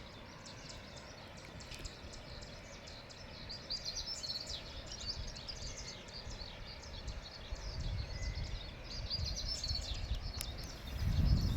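Small birds chirping in many short, high notes over a steady background rush. Near the end a loud low rumble swells in.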